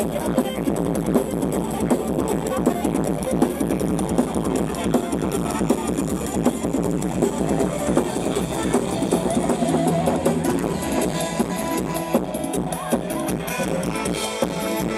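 Loud amplified band music from a Thai rot hae sound truck's loudspeakers.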